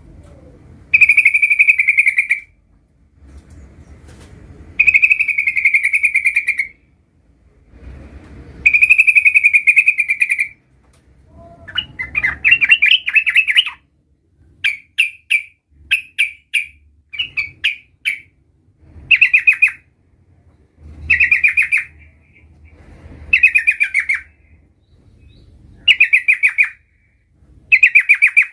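Yellow-vented bulbul (trucukan) singing: fast trilled phrases about a second and a half long, repeated every few seconds. In the middle comes a run of short, choppy notes before the trilled phrases return.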